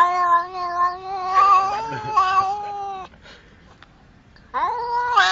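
An animal's long, drawn-out wavering yowl lasting about three seconds, then after a short pause a second yowl that starts with a rising pitch and is held.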